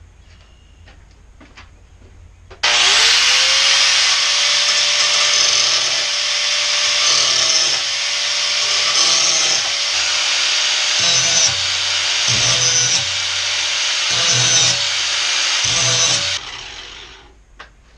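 A power grinder switched on about two and a half seconds in, spinning up, then grinding steel with a loud, harsh hiss and uneven pulses as the blade is worked against it, sharpening a lawn mower blade. It is switched off near the end and winds down.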